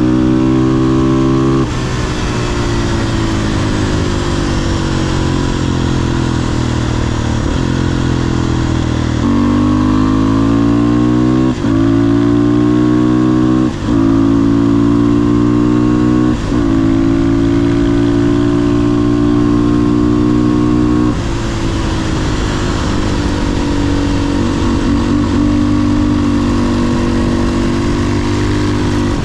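500cc single-cylinder supermoto engine under way: revs fall on a closed throttle, then from about nine seconds it accelerates hard through three quick up-shifts, each a short break in the sound. It holds steady, then the throttle closes again with the revs slowly falling, over steady wind rush.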